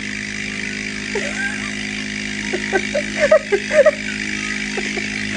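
Electric nasal aspirator's motor running with a steady hum and hiss. Over it, from about a second in, come short, high-pitched whines, more often later on, from a pet frightened by the noise.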